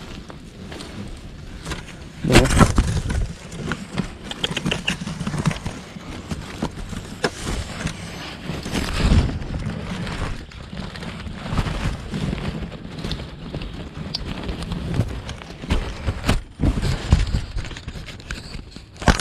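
Irregular knocks, scrapes and crackling rustles, loudest about two seconds in.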